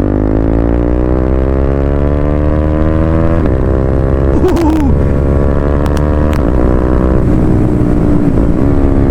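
KTM Duke 390's single-cylinder engine through a loud exhaust, accelerating with the revs climbing over the first few seconds, then running at a steadier pitch with brief breaks in the note about three and a half and seven seconds in.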